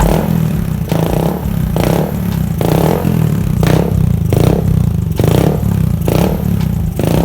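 Suzuki Satria FU's single-cylinder four-stroke engine running through a newly fitted cafe-racer exhaust whose silencer is packed with glasswool instead of a dB killer, surging regularly about once a second.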